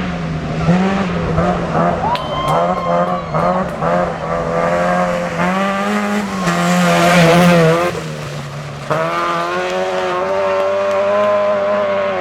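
Rally car engine revving hard, its pitch climbing and dropping repeatedly as it works through the gears, loudest about seven seconds in. It dips briefly, then settles into a steadier engine note from about nine seconds.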